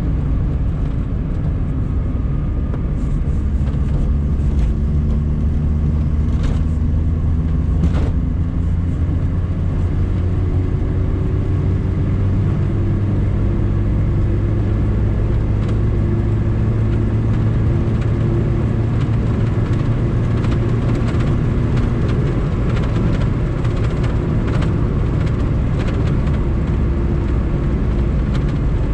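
The 1.5-litre four-cylinder engine of a 1997 Lada VAZ-2108 (Samara) running under way, with road rumble, its note rising slowly through the first several seconds and then holding steady. A few sharp clicks or knocks sound here and there.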